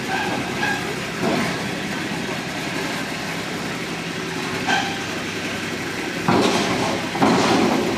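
MD 902 Explorer helicopter running steadily on the ground. Two louder rushing bursts come near the end.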